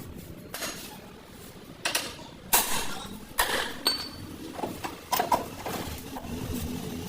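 Metal tools and parts clanking and knocking: about six separate sharp clanks at uneven intervals, one leaving a short high ring.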